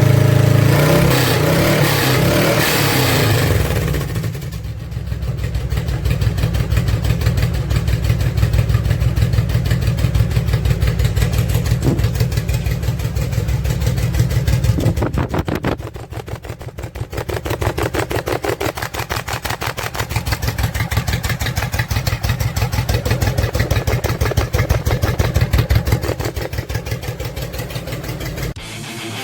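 Honda VTX 1800 F's V-twin engine running through its exhaust, louder for the first few seconds, then settling into an even, rhythmic exhaust beat that dips briefly twice.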